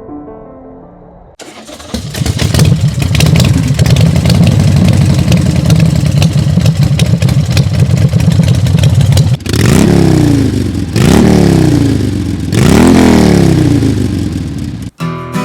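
Motorcycle engine started, catching about a second and a half in and then idling steadily, then revved up and back down three times near the end.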